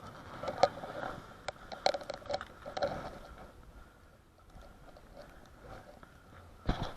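Irregular close-up clicks, crunches and rustles, densest in the first three seconds and quieter in the middle, with a louder burst just before the end.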